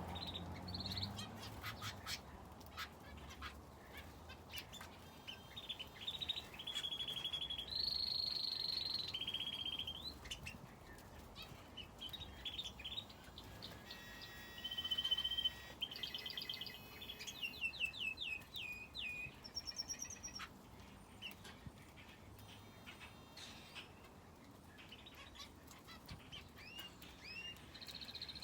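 Finches and a canary in an aviary chirping and singing, with trilled phrases, held whistled notes and a run of quick repeated falling notes, over scattered light clicks.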